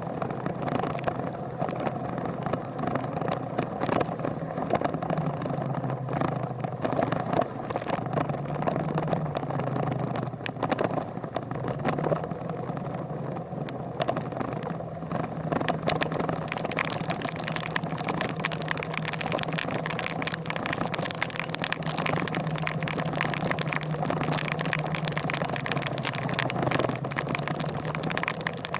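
Motorcycle engine running under way, its pitch stepping up and down every few seconds with throttle changes. About halfway through, a loud crackling hiss sets in and stays.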